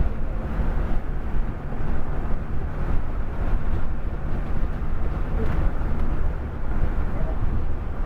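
Scania K410 coach on the move: a steady low rumble of engine and road noise with no clear breaks or events.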